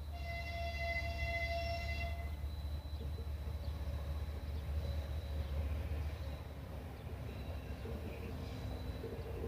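Horn of a TE33AC diesel freight locomotive sounding one chord for about two seconds at the start, followed by the train's low steady rumble.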